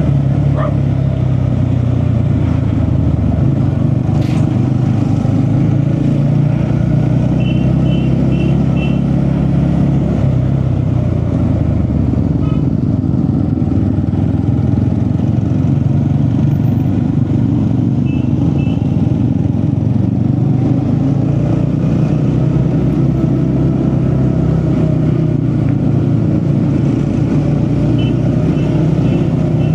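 A car driving steadily along the road: a continuous low engine and road drone. Short high beeps come in small groups, about half a second apart, several times.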